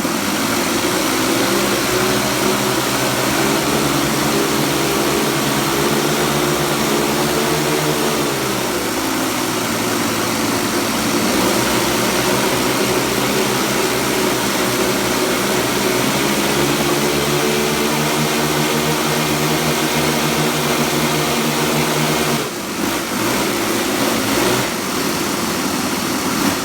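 Saito 30-class four-stroke glow engines of a large model aircraft running together with propellers turning. The pitch drops about eight seconds in as the throttle eases back, rises again around sixteen seconds, and the steady note breaks up about twenty-two seconds in.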